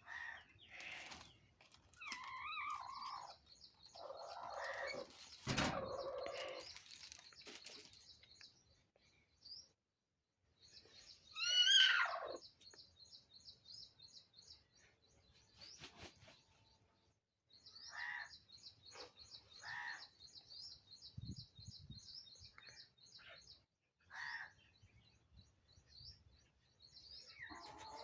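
Birds chirping, with long runs of rapid high twittering and several louder separate calls, one of them a long falling call about twelve seconds in. A single sharp knock about six seconds in.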